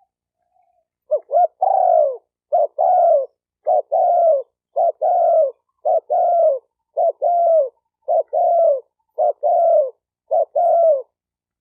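Spotted dove cooing in a quick series of about nine phrases, roughly one a second, starting about a second in. Each phrase is a short coo followed by a longer coo that falls in pitch.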